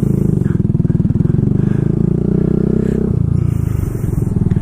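Kawasaki Z125's single-cylinder engine running through a home-made exhaust with a packed muffler and baffle, pulling under throttle with its note climbing, then falling off about three seconds in.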